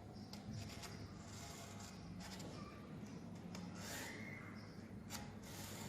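Faint scratching and rubbing of a marker on the steel door as the spot to be drilled is marked out, with a few small ticks and a steady low hum.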